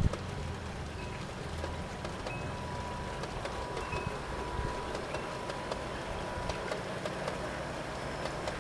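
Freight train rolling past: a steady rolling noise with many light clicks of wheels running over the track.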